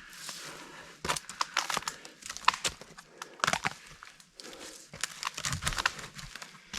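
Dead tree cracking and splintering as it gives way and falls, with many irregular sharp snaps of dry wood and branches and a low thud about five and a half seconds in.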